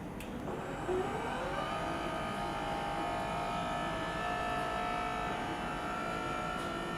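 Electric lift truck's motor whining as it starts up, the pitch rising over about a second and then holding steady as it runs.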